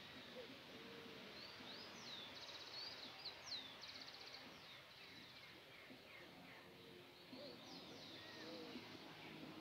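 Faint birdsong: several quick high trills and sweeping whistles, clustered about two seconds in and again near the end, with a few lower whistled notes, over a quiet outdoor hiss.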